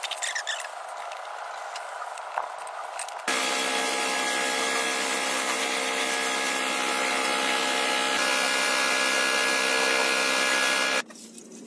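A power tool running steadily at one constant speed for about eight seconds, cutting in and out abruptly; before it, quieter scraping and handling noises.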